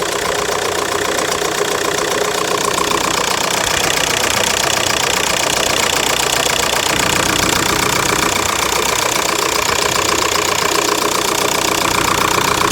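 VW Golf 4's 1.9 TDI four-cylinder diesel engine running steadily, with a rapid, even ticking clatter that the owner suspects comes from the valves.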